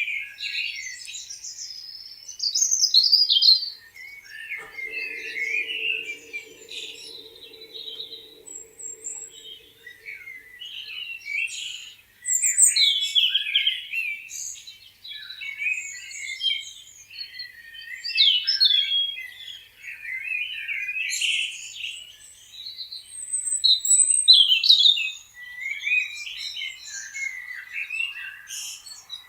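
Several songbirds chirping and singing at once, with short overlapping calls throughout. A low, steady droning tone sounds underneath for about six seconds, starting about four seconds in.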